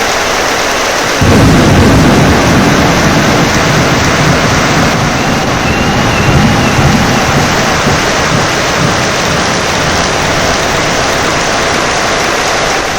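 Steady heavy rain with a roll of thunder. The thunder breaks in suddenly about a second in and rumbles on for several seconds, fading as it goes.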